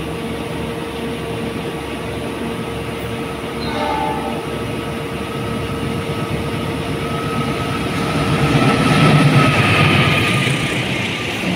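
Diesel locomotive hauling a container freight train approaches and passes close by, its engine noise building to its loudest as the locomotive goes past near the end. A brief horn note sounds about four seconds in.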